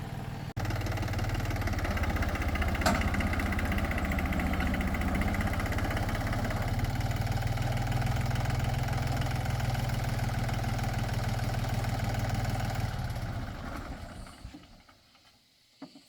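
Tractor engine running steadily, with a sharp tick about three seconds in; the engine sound dies away near the end.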